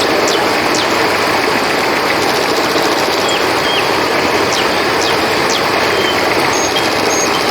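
Steady rush of a flowing river, with brief high chirps and short whistled calls scattered over it.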